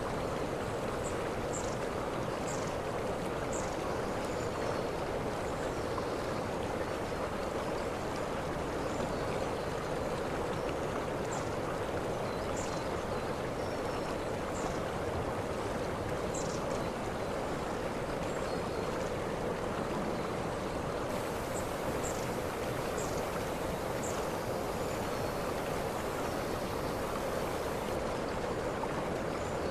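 Waterfall: a steady rush of falling water, with a few brief high chirps over it now and then.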